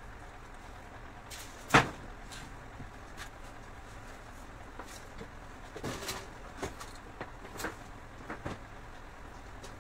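Scattered knocks and clicks of objects being handled, with one loud knock about two seconds in and a run of lighter clicks in the second half, over a steady low hum.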